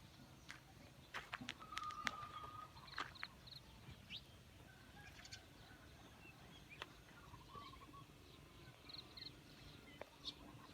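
Faint outdoor birdsong: scattered short chirps and calls of small birds over a quiet rural background, with a few brief clicks in the first three seconds.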